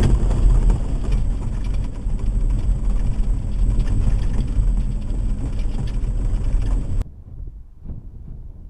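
Steady road and engine noise of an off-road vehicle driving, heard from inside the cab, mostly a low rumble. About seven seconds in it cuts off abruptly to a much quieter, faint background.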